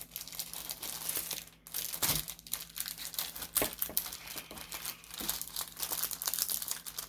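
Packaging crinkling and rustling as it is handled, a run of irregular crackles.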